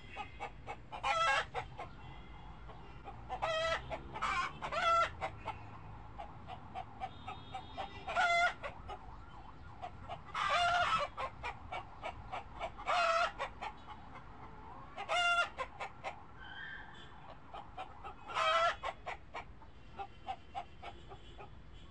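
A series of about a dozen short, pitched animal calls at irregular intervals, one near the middle lasting about a second, with quick clicks in between.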